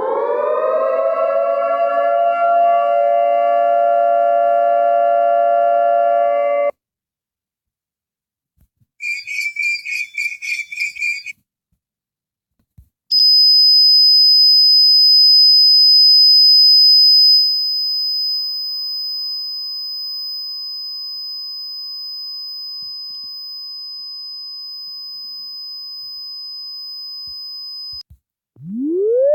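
A run of separate electronic alert sounds. First a buzzy tone sweeps up in pitch and holds for about six seconds. After a pause comes a rapid trilling ring of about two seconds, like a phone or bell. Then a loud, steady, piercing high-pitched tone runs for about fifteen seconds, and a siren starts winding up at the very end.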